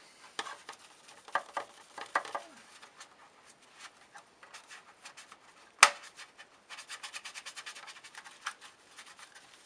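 Scrubbing and rubbing inside the hood of a 1960 Hoover Deluxe 652 vacuum cleaner: short scratchy strokes, with a quick run of them later on. One sharp knock about six seconds in.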